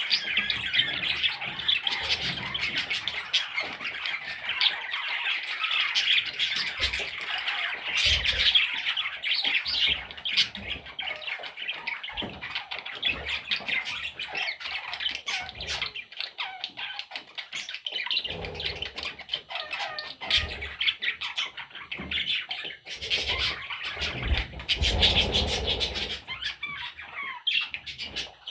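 Budgerigar chicks calling continuously: dense, rapid, raspy chirps and squawks, with a few soft low thumps of movement now and then.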